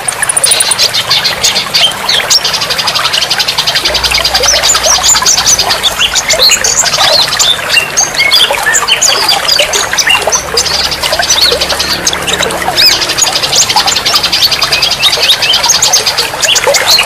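Many songbirds calling at once: a dense, loud mix of overlapping chirps, whistles and fast trills.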